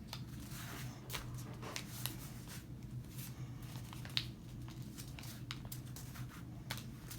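A sheet of paper being folded and creased by hand, with scattered short crinkles and taps over a steady low hum.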